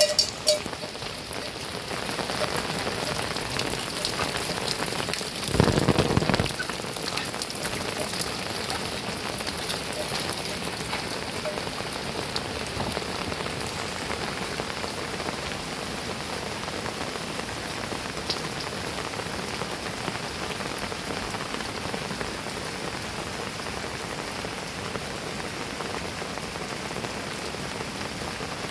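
Heavy rain falling steadily, an even hiss of drops on surfaces, with one brief louder low thump about six seconds in.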